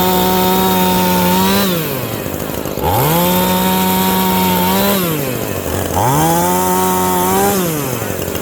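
Husqvarna Rancher 450 50cc two-stroke chainsaw run up to full throttle three times. Each burst holds a steady high pitch for about one and a half to two seconds, then drops back toward idle.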